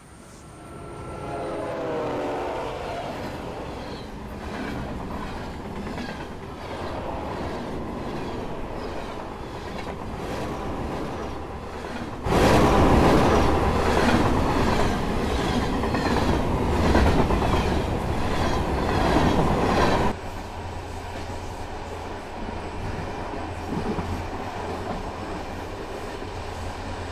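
Passenger train sounds: a horn-like pitched call near the start, then wheels clattering over rail joints in an even rhythm. About twelve seconds in it cuts suddenly to a much louder rush of train noise for about eight seconds, then cuts back to a steadier low rumble and clatter.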